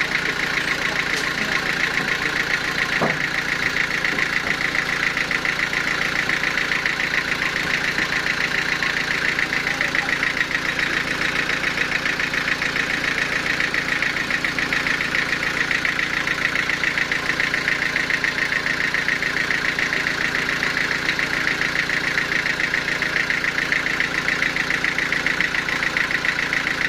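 Sawmill machinery running steadily, an engine-like drone with a fast, even pulsing.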